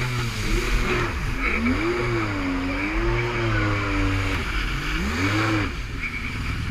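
Jet ski engine running at speed, its pitch rising and falling several times as the throttle varies, over a steady hiss. The engine note drops away about a second before the end.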